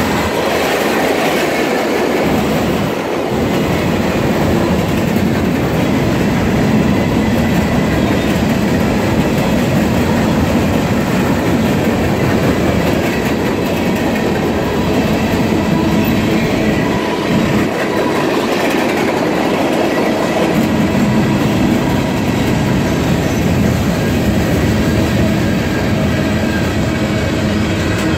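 Freight train's cars passing close by: steel wheels of covered hoppers, coal hoppers and coil cars rolling on the rails in a steady, loud rumble.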